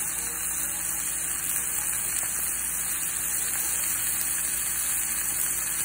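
Strip steak frying in oil in a nonstick skillet with chopped onions and green and red peppers, giving a steady sizzling hiss.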